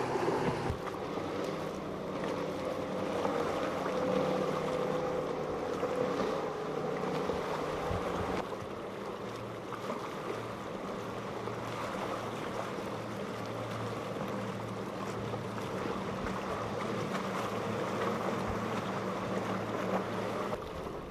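Boat engines running steadily over a rushing haze of wind and water. The engine hum changes pitch and pattern about eight seconds in.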